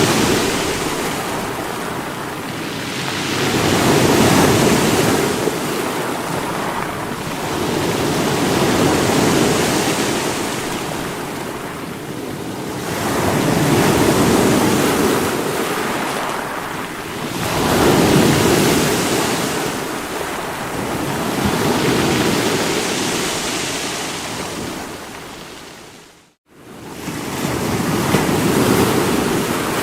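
Sea waves breaking against rocks, the surf swelling and washing back about every four to five seconds. Near the end the sound drops out to a moment of silence and comes straight back.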